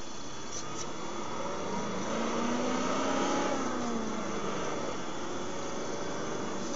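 An engine passing by, its pitch rising and then falling, loudest about three seconds in.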